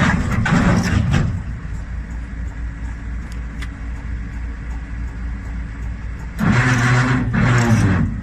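A motor vehicle engine running with a steady low rumble. It gets louder twice, for about the first second and again over the last two seconds.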